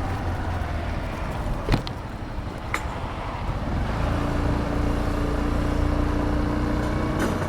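Suzuki Address 125 scooter on the move: a steady low rumble of engine, road and wind noise. There is a sharp click about 1.7 s in, and a steady engine hum joins from about four seconds in.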